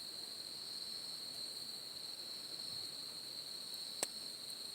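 Insects trilling steadily in one unbroken high-pitched tone. A single sharp snap about four seconds in.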